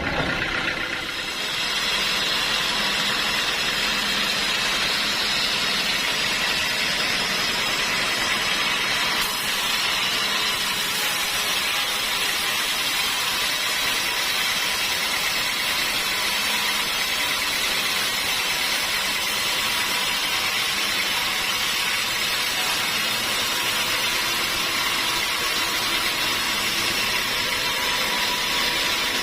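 Sawmill machinery running steadily: an even, unbroken machine noise that holds the same level throughout.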